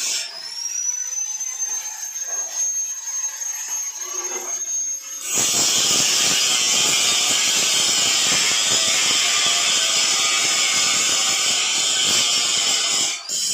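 Angle grinder spinning up to a steady high whine, then about five seconds in biting into steel with a loud, harsh grinding hiss that cuts off near the end.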